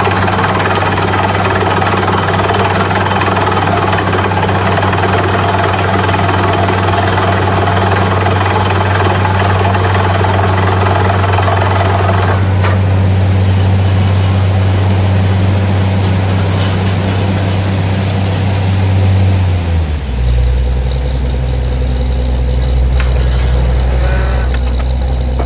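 Borewell drilling rig's engine running steadily under a loud rushing hiss. The hiss cuts off sharply about halfway through, and a few seconds before the end the engine drops to a lower, slower note.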